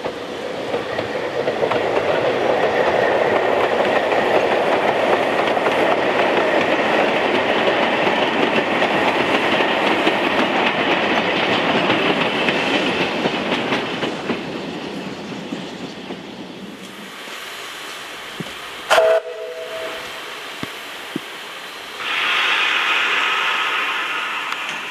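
A narrow-gauge train rumbling past on the rails, fading away after about 14 seconds, with a brief toot a couple of seconds later. Near the end, a steady hiss of steam starts suddenly from a small narrow-gauge steam tank locomotive standing still.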